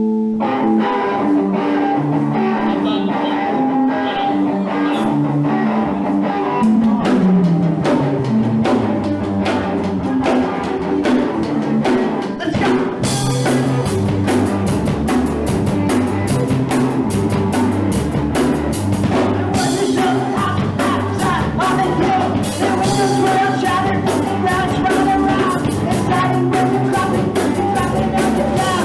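Live punk rock band starting a song, heard loud in a room: electric guitar and bass play a riff while the drums build, and about halfway through the drum kit comes in fully with steady crashing cymbals.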